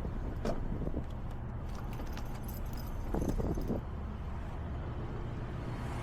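Steady low rumble of idling vehicles at a truck stop, with a few short clinks and rustles about half a second in, at about one second, and a brief cluster a little after three seconds.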